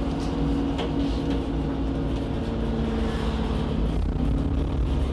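Cabin sound of an Alexander Dennis Enviro 400 double-decker bus with a Voith automatic gearbox driving along: low engine and road rumble with a steady hum from the driveline that fades about four seconds in.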